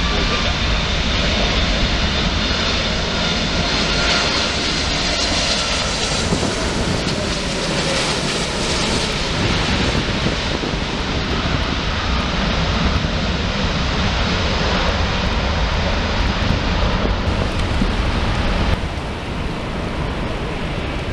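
Wide-body jet airliner passing close by at low altitude, its engines making a loud, steady roar with a faint whine that glides down in pitch in the first few seconds. The noise drops sharply about two seconds before the end.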